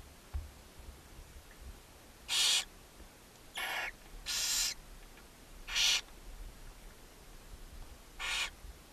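Barn owl owlets giving harsh, hissing begging calls: five separate rasping bursts of about half a second each, a second or so apart.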